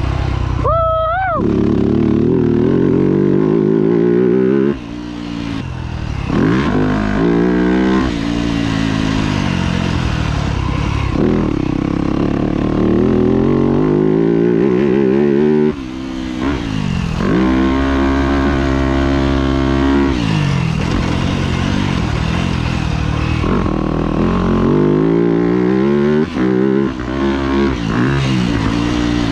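2025 Yamaha YZ250F's 250cc four-stroke single-cylinder engine being ridden hard, revving up and down as the rider works the throttle and gears, its pitch repeatedly climbing and then falling. The throttle is chopped sharply about five seconds in and again around sixteen seconds in.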